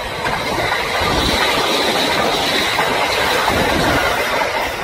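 Train running along the rails: a steady, loud rush of wheel and track noise with a faint high whine.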